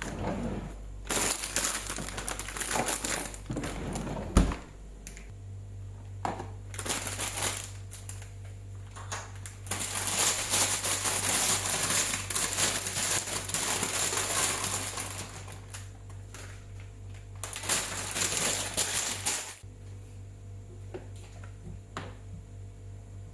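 Kitchen food-preparation handling sounds: bursts of rustling and crinkling with scattered knocks, and a sharp knock about four seconds in.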